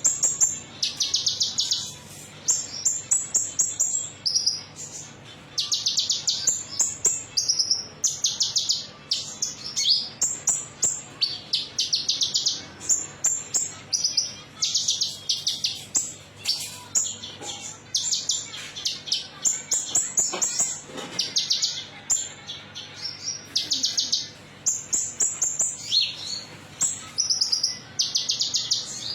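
Metallic-type olive-backed sunbird ('konin') singing: short bursts of rapid, high trilled notes, one after another every second or so. This is a lure recording ('pancingan'), a song played to prompt caged birds to sing.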